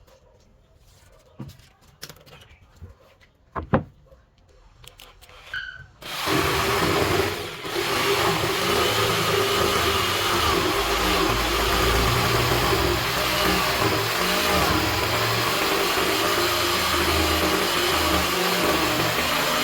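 A few light knocks and clicks, then about six seconds in an electric power tool starts and runs steadily, with a brief dip a second later.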